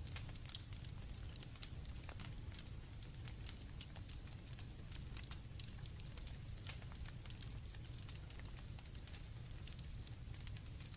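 Campfire crackling with irregular sharp pops over a low steady rumble, with crickets keeping up a steady high chirping trill.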